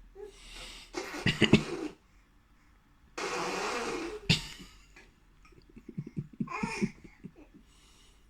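Baby blowing raspberries, a sputtering buzz of the lips with voice mixed in, in three bursts: about a second in, at about three seconds, and near six seconds.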